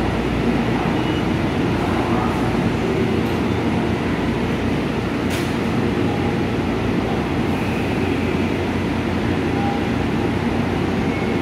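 Steady drone of electric trains standing at a covered station platform, their on-board equipment running while they wait, with a faint click about five seconds in.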